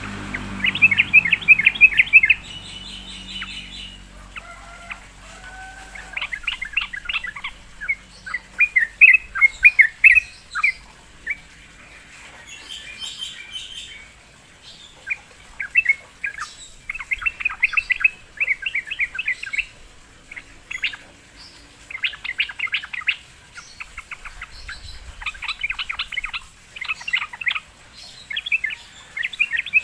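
Yellow-vented bulbul (trucukan) singing lively, repeated short phrases of rapid bubbly notes with brief pauses between them, as used for a song lure.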